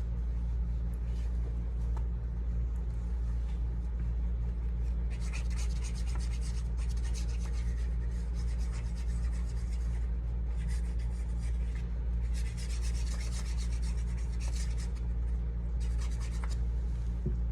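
Scratchy rubbing strokes over a stencil on card stock, in several stretches of a second or more each with short pauses between, over a steady low hum.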